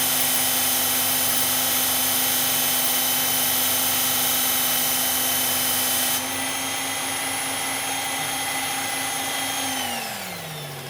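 Electric belt knife sharpener running with a steel blade being ground against the abrasive belt. About six seconds in, the grinding hiss stops and the motor runs on alone; near the end it is switched off and winds down in pitch. The belt is one the user suspects is worn out.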